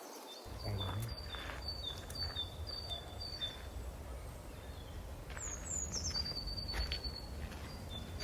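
A small songbird repeating a clear two-note phrase, high then a little lower, about twice a second. It pauses briefly midway and slips in a few downward-sliding notes before resuming, over a steady low outdoor rumble.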